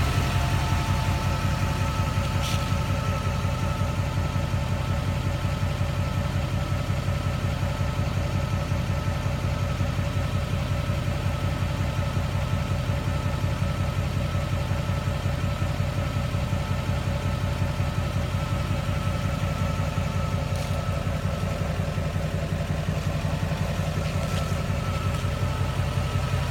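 Duramax diesel engine idling steadily in park at operating temperature, with a steady high whirring whine over the idle.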